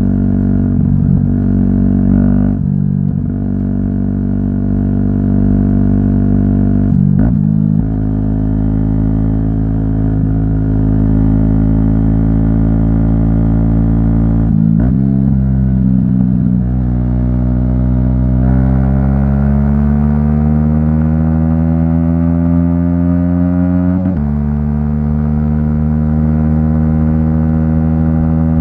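Aprilia SX 125's single-cylinder four-stroke engine through an Arrow exhaust, ridden through the gears. It holds a steady pitch with brief dips at a few gear changes, climbs steadily in pitch under acceleration from about halfway through, then drops at an upshift near the end.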